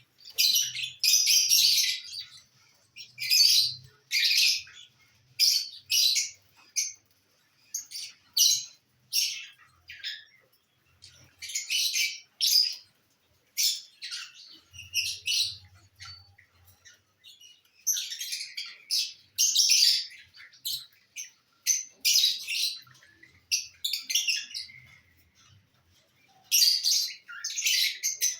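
Lovebirds calling: many short, high-pitched chirps in quick irregular runs, with brief pauses between them.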